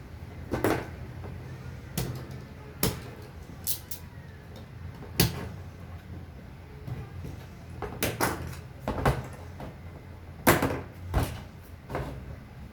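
Bamboo pieces knocking and clicking as they are handled and fitted together by hand: about a dozen sharp, irregular knocks, some in quick pairs, the loudest near the end.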